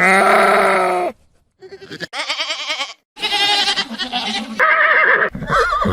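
A run of bleating calls from livestock, about five in a row, several with a shaky, quavering pitch, joined by abrupt cuts.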